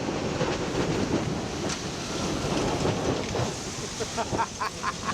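Strong wind buffeting the microphone over the rush and splash of waves around a sailboat under way in a heavy breeze.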